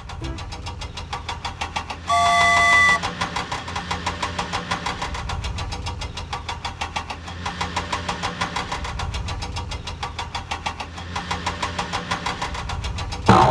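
Vehicle engine running with a fast, even chugging beat. About two seconds in, a horn sounds once for about a second.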